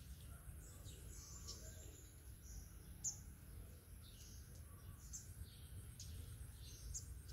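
Faint birds chirping now and then, with one sharper chirp about three seconds in, over a low steady background rumble.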